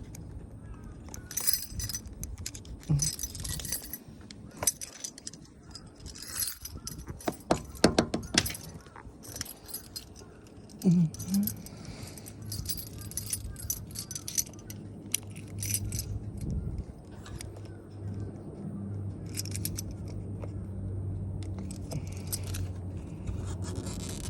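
Irregular metal clicks and scrapes with a jangle of keys, as a small stone stuck in a car tyre's tread groove is pried out; a low steady hum sets in about halfway through.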